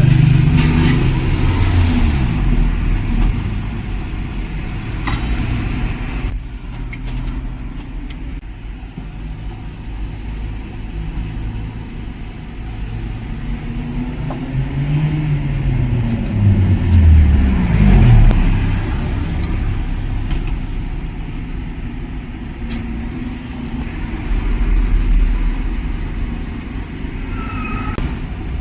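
Road traffic: cars passing and pulling away, engine pitch rising and falling, most clearly at the start and again a little past halfway.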